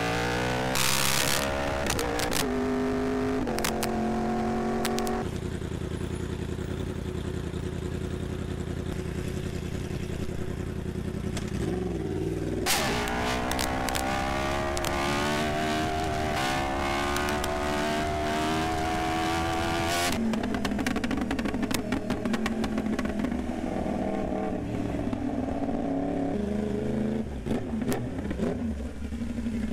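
Yamaha R1M's crossplane inline-four motorcycle engine under way. Its pitch steps down several times in the first five seconds as it shifts up through the gears, then it holds a steady note. About twelve seconds in the throttle snaps open and the engine pulls up through the revs, and the throttle keeps rising and falling after that.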